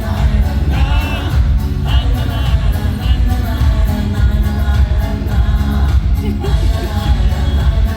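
Pop song playing, a heavy bass line under a singing voice with short wavering held notes in the first few seconds.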